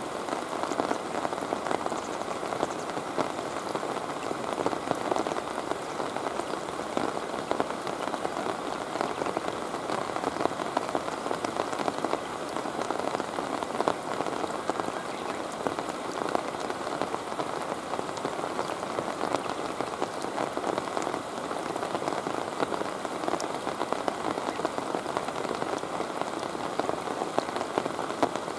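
Steady rain falling on river water: a dense, even patter of drops.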